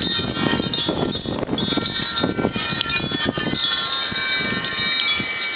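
Wind chimes ringing continuously in strong gusty wind, many overlapping metallic tones, with wind rumbling on the microphone that eases off after about three and a half seconds.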